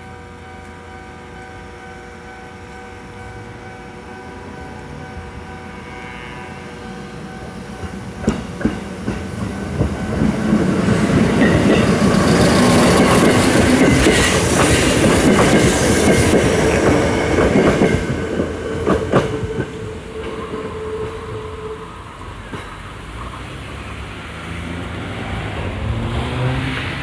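Sanyo Electric Railway train passing a level crossing. A steady ringing tone from the crossing warning sounds first. Then the train runs by close, wheels clacking over rail joints, getting loud and then fading away, and a rising motor whine comes near the end.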